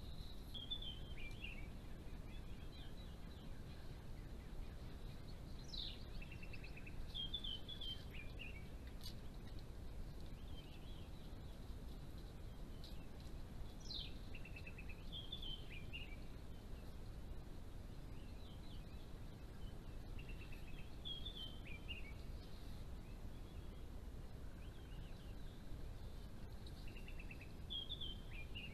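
A bird singing a short phrase of quick descending notes, repeated every few seconds, over a steady low background hiss.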